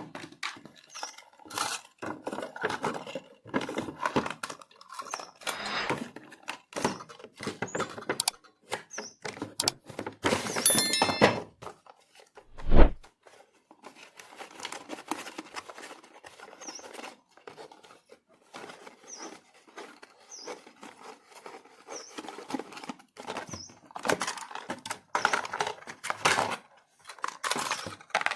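Irregular handling noises of toy packaging and plastic parts: rustling, clicks and light knocks, with one sharp, loud knock about thirteen seconds in.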